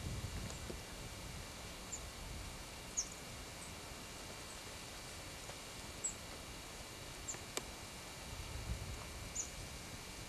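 Small birds chirping: scattered short, high chirps, roughly one every second or so, over a steady background hiss, with one sharp click about three quarters of the way in.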